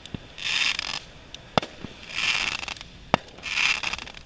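Fireworks shots going off one after another in an even rhythm, about one every one and a half seconds: each a short hissing whoosh followed by a single sharp bang.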